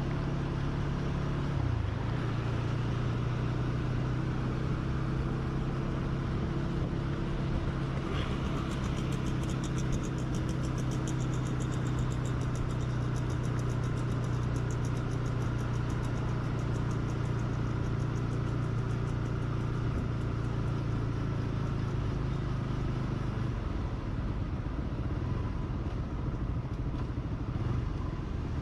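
Motorcycle engine running at a steady speed under road and wind noise; its pitch drops about two seconds in and shifts again near the end. A fast, even ticking is heard from about eight to twenty seconds in.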